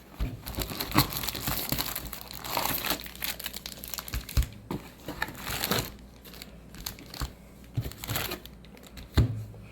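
Foil wrapper of a Magic: The Gathering set booster pack crinkling and tearing as it is opened by hand: irregular crackling rustles with small clicks, busier in the first half and thinning out later.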